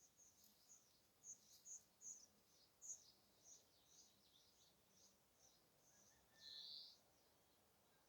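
Birds chirping faintly: a string of short, high chirps at a quick, uneven pace, with one longer, louder call about six and a half seconds in.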